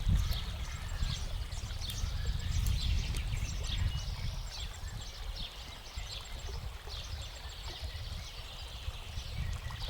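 Wind buffeting the microphone with a low rumble, while small birds chirp with many short, quick calls throughout.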